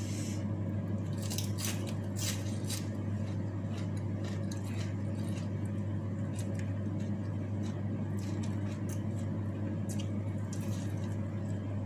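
Close-up mouth sounds of a person eating by hand, chewing rice with raw leafy greens and sambal, full of small wet clicks and smacks, over a steady low hum.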